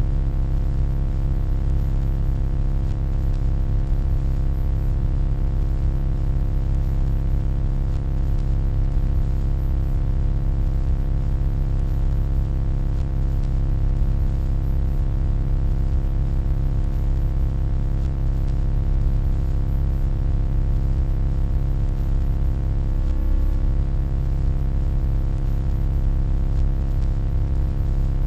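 Steady electronic hum: a deep, even drone with a stack of fainter steady overtones above it, unchanging throughout.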